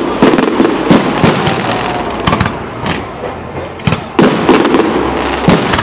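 Fireworks exploding overhead in a rapid, irregular string of sharp bangs, about a dozen in under six seconds, over a continuous crackling hiss.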